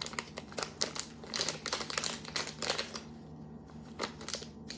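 Plastic packaging crinkling and rustling in irregular crackles as it is handled, thinning out after about three seconds.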